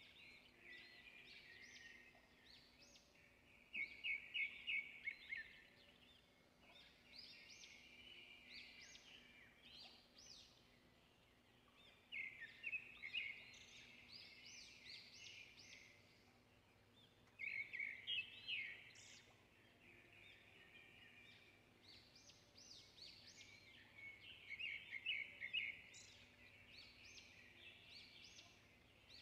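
A bird singing: bursts of rapid, high chirps repeated about four times, with softer chirping between them.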